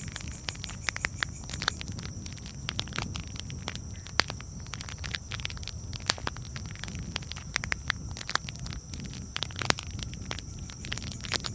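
Wood campfire crackling: irregular sharp pops and snaps, a few louder ones scattered through, over a steady low rumble.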